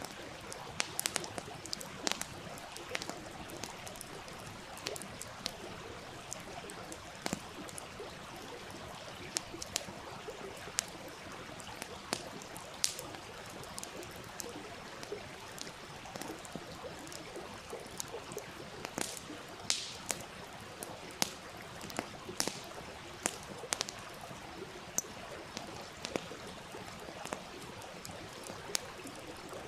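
Wood campfire crackling, with irregular sharp pops, over the steady running of a small stream.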